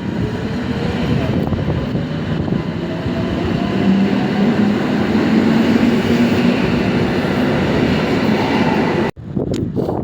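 Train running at close range, a dense rumble with a faint whine that rises in pitch over the first few seconds. The sound cuts off suddenly near the end.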